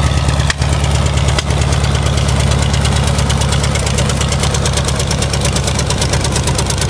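Fuel-injected car engine idling steadily just after a cold start, having sat all winter.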